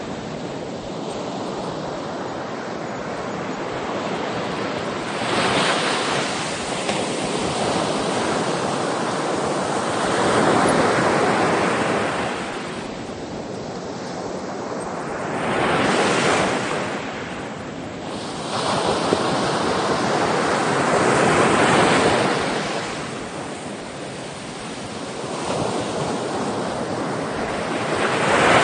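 Ocean waves washing in, each surge swelling and fading about every five or six seconds.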